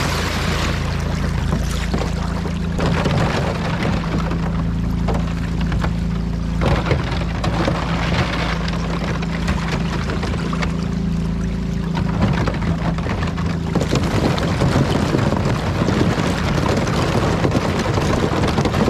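Small outboard motor running steadily on a boat under way, with water and wind noise rushing past.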